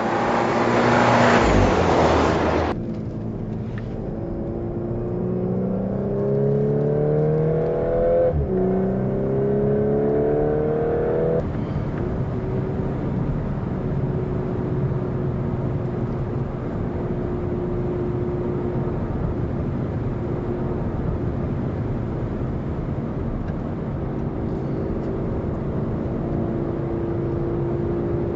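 Volkswagen Golf 8 R Variant's 2.0 TSI turbocharged four-cylinder engine and exhaust on the move. A loud rushing noise fills the first few seconds. Then the engine note climbs under acceleration, drops at a dual-clutch upshift about eight seconds in and climbs again, before settling into a steady drone from about twelve seconds on.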